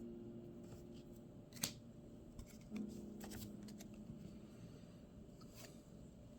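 Paper trading cards sliding and flicking against each other as a stack is thumbed through, with a few light clicks; the sharpest comes about a second and a half in.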